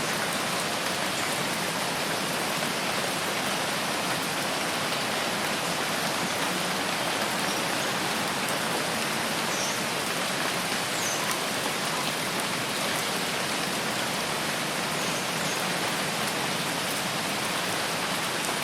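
Steady rain falling in a forest, an even hiss of drops on leaves and ground, with a few faint high chirps now and then.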